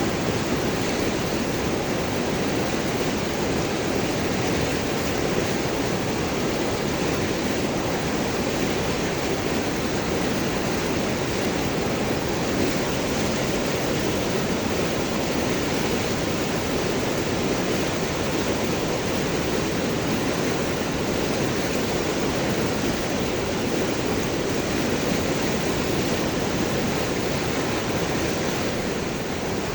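A river flowing over and around large rocks: a steady, even rush of water.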